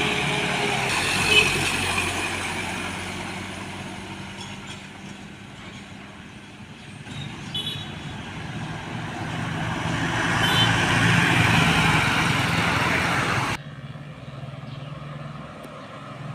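Heavy trucks passing on a road: one engine fades away over the first few seconds, then another approaches and passes loudly. The sound drops sharply near the end.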